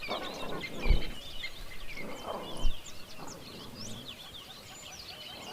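Many small birds chirping and twittering together, with a couple of lower calls underneath and two sharp thumps, about a second in and near the three-second mark.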